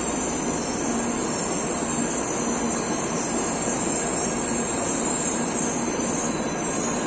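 A Shinkansen bullet train pulling into the platform, running with a loud, steady high-pitched whine over a rushing noise that fades near the end as it slows to a stop.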